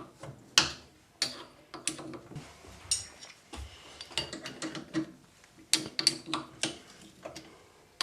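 Irregular metallic clicks and ticks, each with a short ring, as an M8 machine tap is turned by hand into a drilled hole on a lathe, threading the hole.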